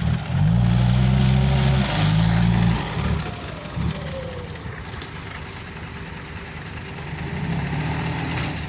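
Diesel dump truck engine working hard under load in mud for about three seconds, then easing off to a lower, quieter run. It builds up again near the end.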